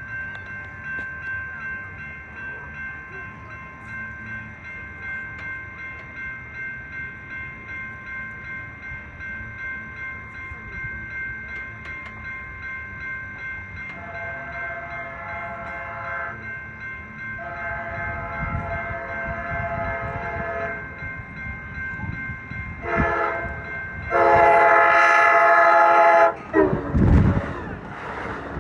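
Grade-crossing bells ringing in a steady pulse, then an approaching train's horn sounds the crossing signal: two long blasts, a short one, and a final louder long blast. The rumble of the arriving train, an Amtrak Surfliner, starts near the end.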